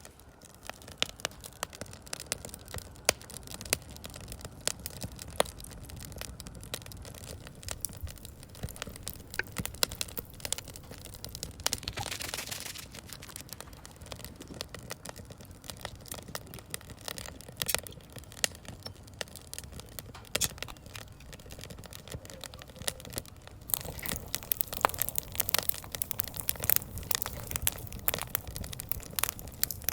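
Firewood burning in a large steel fire pit, crackling and popping irregularly, with a brief hiss about twelve seconds in. The popping grows denser and louder over the last few seconds.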